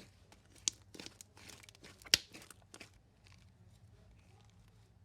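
Hands squeezing and stretching a soft shaving-cream marshmallow slime, giving sharp pops and crinkly crackles. The loudest pop comes about two seconds in, and the sound thins to faint clicks near the end.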